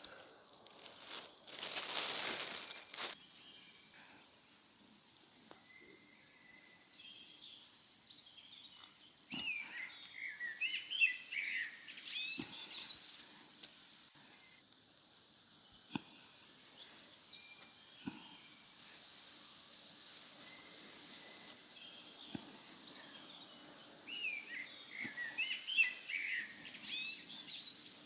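Birds chirping outdoors in two quick bursts of short calls over a faint steady background, with a brief rushing noise a second or two in and a few scattered ticks.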